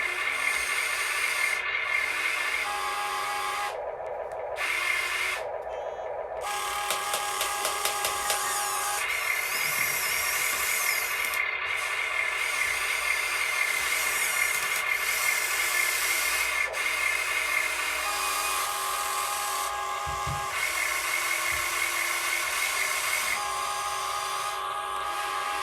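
Small electric motors and gearing of radio-controlled construction models whining as they are worked, the pitch shifting and the sound stopping and starting every few seconds as the controls change.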